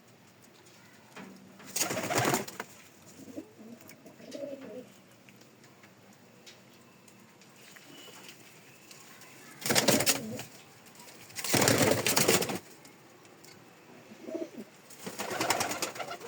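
Pigeons cooing softly, broken by four loud rustling bursts, at about two, ten, twelve and fifteen seconds in.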